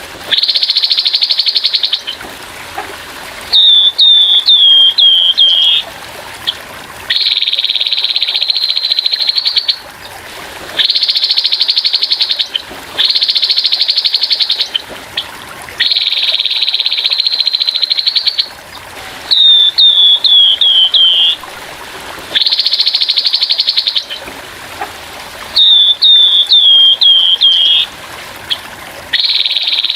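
Grey-headed babbler singing its harsh rapid song: buzzy trills about two seconds long, repeated with short gaps, alternating three times with runs of five or six quick falling notes. Trickling water runs faintly underneath.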